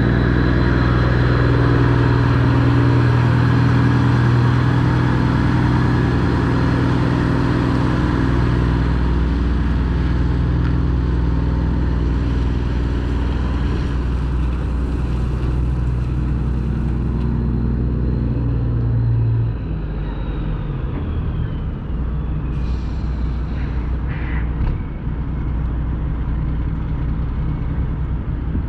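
Straight-piped Detroit diesel engine in a Freightliner Classic XL semi truck running with a loud, steady, deep note. About two-thirds of the way through the note drops away, leaving a lower rumble.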